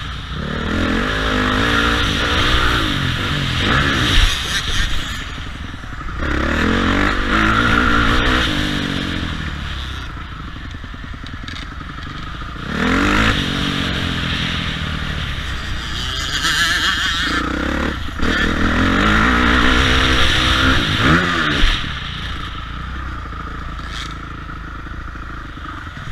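Motocross bike engines revving hard and easing off again and again, the pitch climbing with each surge and falling away between them, several times over.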